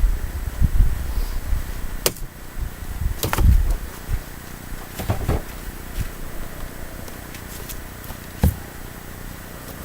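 Firewood being chopped by hand: about five sharp, irregularly spaced knocks of an axe striking wood, over a low rumble that fades after about four seconds.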